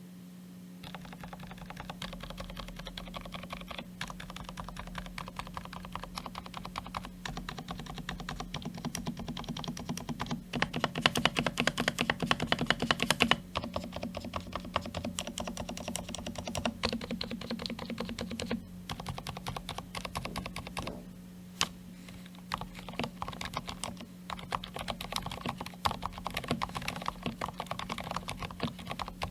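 Typing on a DURGOD K320 mechanical keyboard with Kailh silent red linear switches: a steady stream of soft, rapid keystrokes, with a louder, faster burst a little before the middle and a brief pause about two-thirds of the way through. A steady low hum runs underneath.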